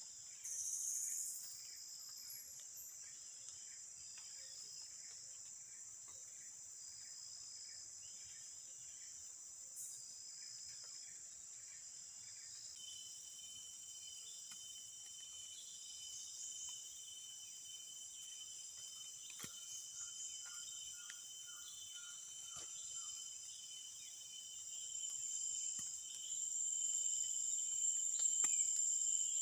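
Insects trilling steadily in several high-pitched tones, one joining about halfway through, growing louder near the end, with a few faint knocks.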